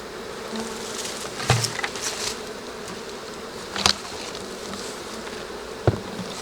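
Honey bees buzzing steadily around an open hive, with three short sharp knocks about two seconds apart as the hive equipment is handled while it is closed up.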